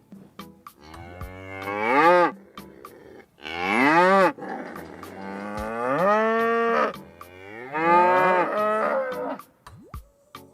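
Cows mooing: four long moos, each sliding up in pitch and falling back, with light clicks scattered between them.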